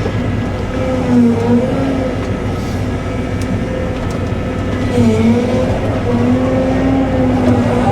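Cat 313 excavator's diesel engine running steadily at working revs, its pitch dipping briefly twice, about a second in and again around five seconds in.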